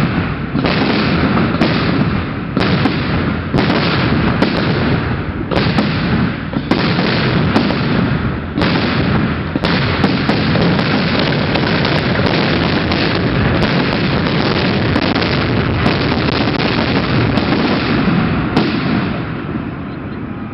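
Fireworks display: a dense barrage of bursts and booms, so rapid they merge into a continuous rumble, dying down near the end.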